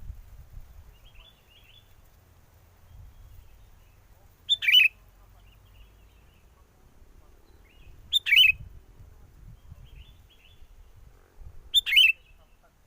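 Sooty-headed bulbul (kutilang) calling: three loud, short calls about four seconds apart, with fainter chirps in between. Wind rumbles on the microphone underneath.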